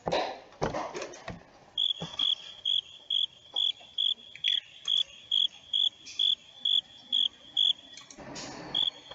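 Recorded field cricket chirping played from an educational web page: a regular train of short, high chirps, about two or three a second, starting about two seconds in, pausing briefly near the end and then resuming.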